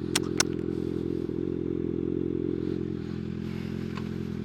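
Kawasaki ZX-6R 636 inline-four sport bike engine running at a steady low speed, with two sharp clicks near the start.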